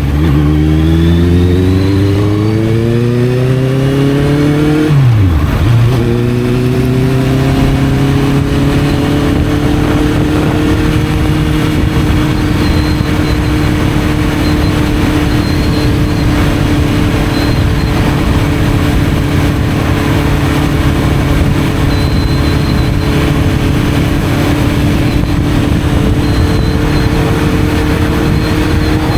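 Honda CB650F's inline-four through an Arrow exhaust, accelerating with the pitch climbing, dropping sharply at a gear change about five seconds in, then climbing again and settling into a steady cruise. A steady rushing noise runs under the engine.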